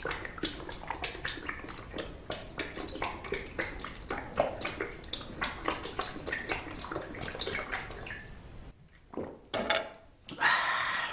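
Close-miked eating sounds of octopus fried rice: quick wet mouth clicks and chewing, many small sounds a second, giving way near the end to a few louder hissing noises.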